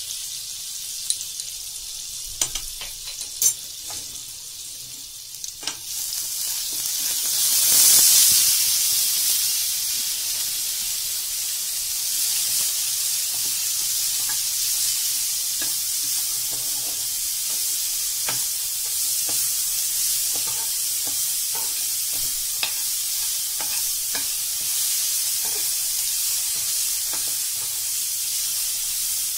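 Spices sizzling in hot olive oil in a nonstick frying pan, with a few sharp spoon clicks. About six seconds in, drained boiled sweet corn kernels go into the oil and the sizzle swells loudly, then settles into a steady frying sizzle as a spoon stirs the corn.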